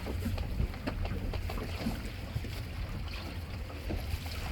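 Steady low wind rumble on the microphone aboard a small fishing boat on open water, with scattered light knocks.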